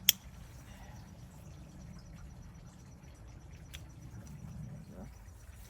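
A sharp click right at the start, then a faint, steady high insect trill over a low rumble, with one softer click a little before four seconds in.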